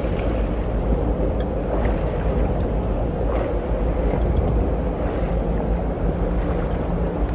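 Steady wind buffeting the microphone on a small boat on open water, with a faint low hum underneath.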